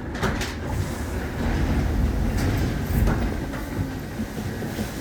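Busan Metro Line 3 subway car, a Hyundai Rotem IGBT-inverter train, rolling on the track with a low rumble. Several short clicks come from the wheels and running gear, a few in the first second and more around the middle.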